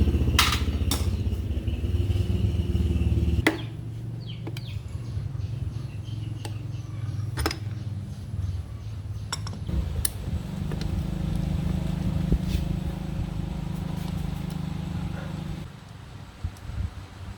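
A small motorcycle engine running steadily, louder for the first few seconds and then settling lower before cutting off near the end, with sharp metallic clicks and knocks over it.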